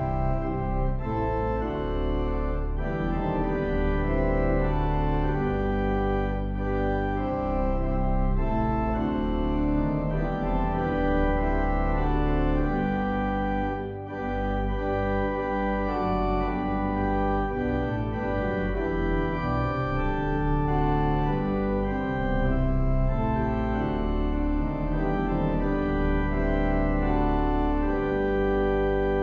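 Organ playing slow, sustained chords, with a brief pause between phrases about fourteen seconds in.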